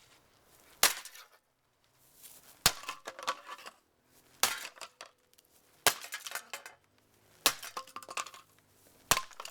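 A Lifestyle MHH1305 ceiling fan being struck hard over and over, six blows about a second and a half apart. Each blow is followed by a brief clatter and clinking of loose broken parts.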